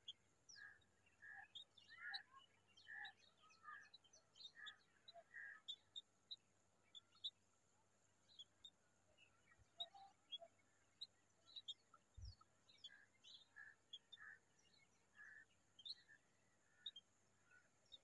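Faint chirping of small birds: short high notes in two bouts, one in the first five seconds and another from about twelve to seventeen seconds in, with thin high peeps scattered between.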